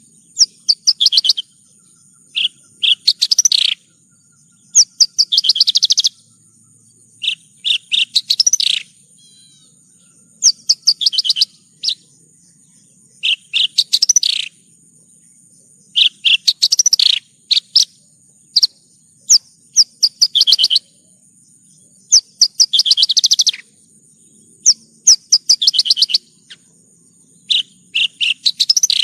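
Javan bush lark (branjangan) singing: about a dozen short phrases of fast, chattering, trilled notes, one every second or two. A steady high-pitched whine runs underneath.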